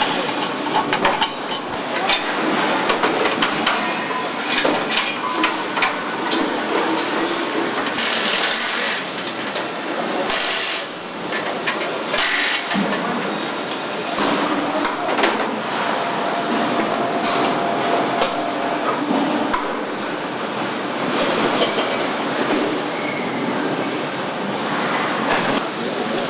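Truck assembly-line factory noise: steady clatter of metal knocks and tool clicks, with three short hissing bursts around the middle.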